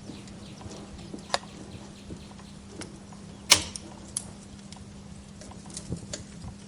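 Wood fire crackling: irregular sharp pops and snaps over a steady low hiss and hum, the loudest snap about halfway through.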